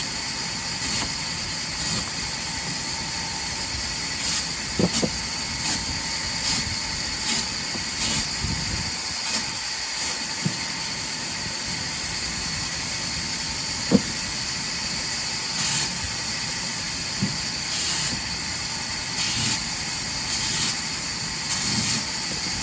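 Sawmill wood-cutting machine running: a steady hiss with short bursts of hiss recurring every second or so, and a few sharp knocks, one of them loudest about two-thirds of the way through.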